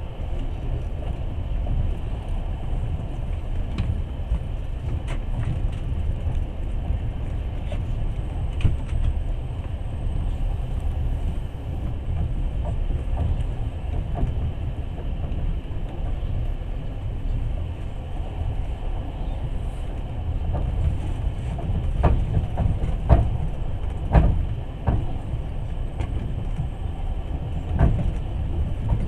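Passenger train running at speed, heard from inside the carriage: a steady low rumble of wheels on rails with scattered sharp clicks and knocks, a cluster of louder knocks about three quarters of the way through.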